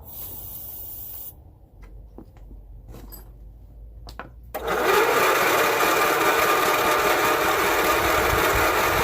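Electric starter cranking the garden tractor's small engine, which turns over steadily for about five seconds from halfway in without catching. The owner finds the carburetor flooded and no spark. A brief hiss and a few clicks come before the cranking.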